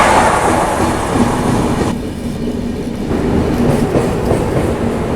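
Passenger train running on the track: a steady rumble of wheels on rails, heard from aboard the coach of an Indian Railways superfast express.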